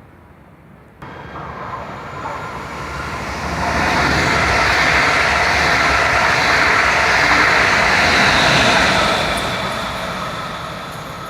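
A train running past on the track through the station, building up to its loudest in the middle and then fading as it goes by.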